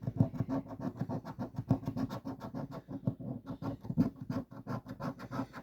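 Scratching the coating off a $5 Monopoly scratch-off lottery ticket: quick, uneven scraping strokes, several a second.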